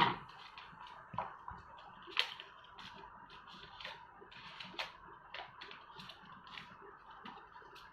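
Paper rustling and crinkling in short, irregular crackles as it is curled around a pencil, with a few sharper clicks, the loudest near the start and about two seconds in.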